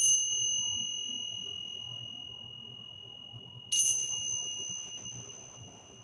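A small high-pitched bell struck twice, about four seconds apart, each strike ringing on and slowly fading; the second is still ringing near the end.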